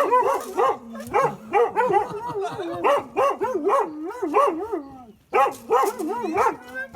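A dog giving a rapid string of high-pitched yelping whines, each rising and falling in pitch, about three a second, with a short break about five seconds in: excited greeting vocalising.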